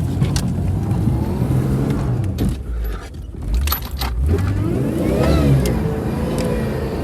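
Vehicle engine running under way, dipping about three seconds in, then revving up and easing back off, with sharp metallic rattles and clicks throughout.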